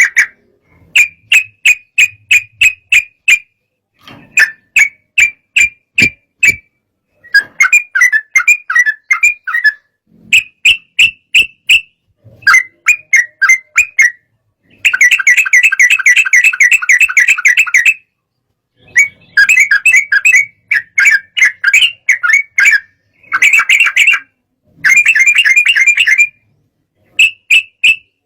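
Yellow-vented bulbul (trucukan) singing loud, rapid chattering phrases, each a second or two long with short pauses between, and one longer unbroken run of notes about halfway through.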